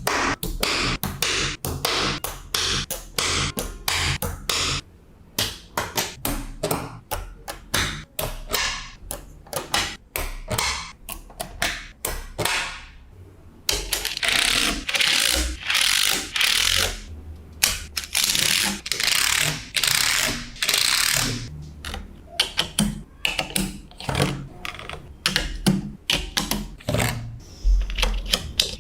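Small magnetic balls clicking and snapping together in quick irregular runs, with longer stretches of continuous rattling around the middle as balls slide and roll against each other.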